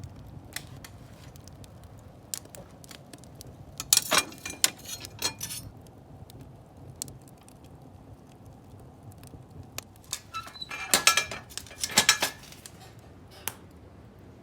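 Wood fire crackling with scattered sharp pops, with two bouts of louder clattering and clinking, about four seconds in and again around eleven to twelve seconds in.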